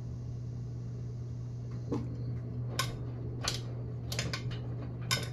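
Kenmore Elite washing machine running its wash cycle with a steady low hum, and from about two seconds in, several sharp metallic clinks, which the owner takes for a coin loose in the clothes dropping inside the washer.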